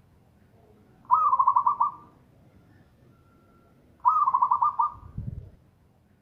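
Zebra dove (perkutut) cooing twice, each call a quick, rolling run of about six notes lasting under a second, the two about three seconds apart. A short low thud follows just after the second call.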